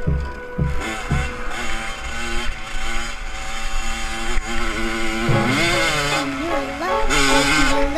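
Off-road motorcycle engine revving up and down, with repeated rises in pitch and two louder surges in the second half. A music beat fades out in the first second.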